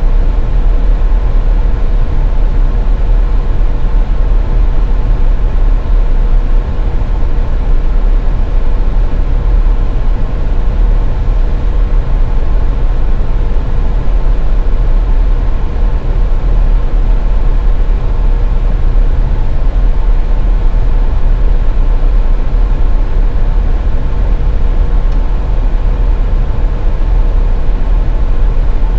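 Steady rumble of a car driving, tyre and engine noise, with a faint constant hum running under it.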